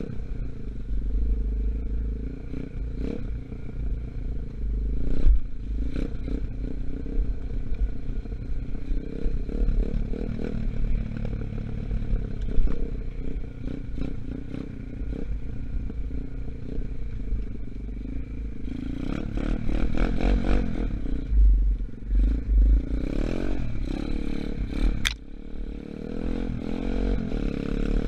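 A 125cc dirt bike engine running under way, its new engine still being run in, with the revs rising and falling and a rev climbing near the end. Rattling clatter and wind rumble on the microphone run through it, with a sharp click about 25 seconds in.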